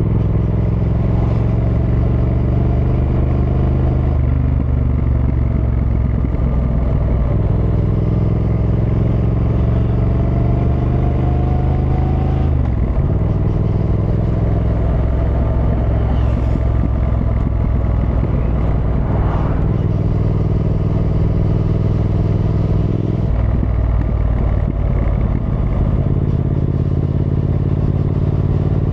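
Triumph Thruxton R's 1200 cc parallel-twin engine running while riding. The pitch climbs steadily as the bike accelerates, then drops sharply about 12 seconds in and again about 23 seconds in.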